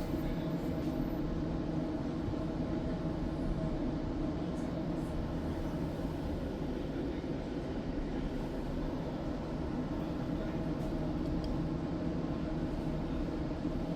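An electric tram running along its track, heard from on board: a steady running noise with a low hum that does not change.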